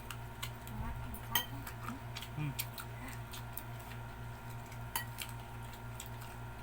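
Scattered light clicks and clinks of cutlery and dishes at a meal of chicken feet, irregular and a few each second, over a steady low hum.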